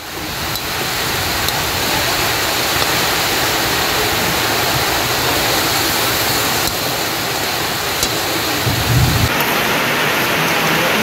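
Cane toad meat sizzling in a hot wok: a steady, even hiss, with a low thump about nine seconds in.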